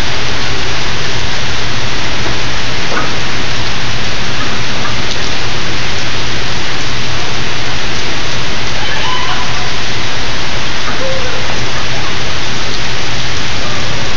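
Heavy downpour of rain pouring onto wet paving, a loud, steady hiss.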